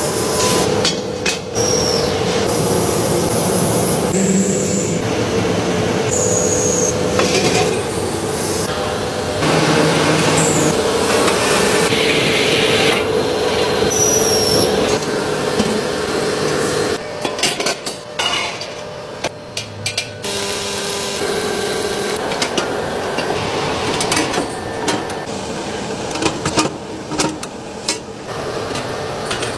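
Metalworking in a workshop: a machine running steadily with metal being hammered and scraped, the knocks coming thicker in the second half.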